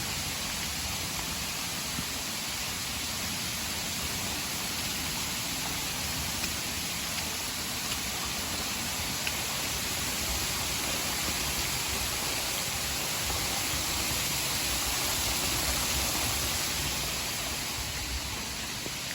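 Rain-swollen waterfall rushing, a steady even noise that swells slightly in the middle.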